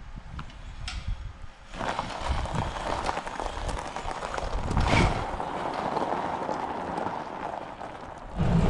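Electric UTV driving off: about two seconds in, a steady rumble of tyres and rattling bodywork starts, with no engine note and a sharp jolt near the middle.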